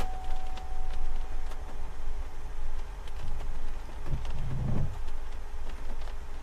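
Wind buffeting the microphone in a gusting low rumble, with a steady electronic tone that stops about a second in.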